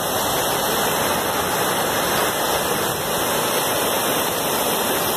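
Floodwater rushing, a steady, unbroken noise.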